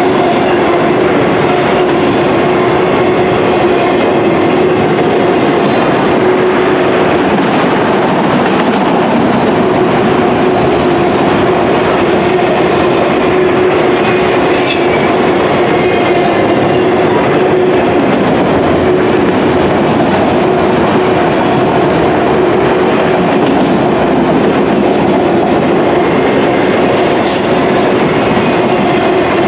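Auto rack freight cars rolling past at track speed: steel wheels on rail making a steady, loud rumble and clatter, with a steady hum held under it.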